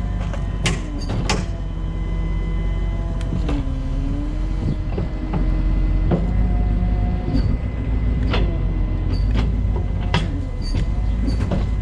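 Rollback tow truck's engine running with its hydraulic pump whining under load. The whine steps to new pitches several times as the bed controls are worked, with sharp metal clanks now and then.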